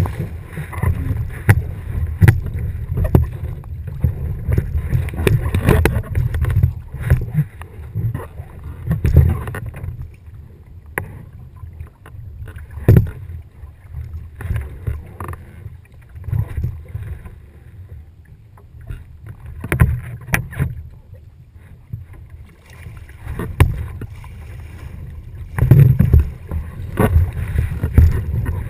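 Gusty wind and water noise aboard a sailboat: an uneven low rumble that swells and fades, with scattered sharp knocks and clicks.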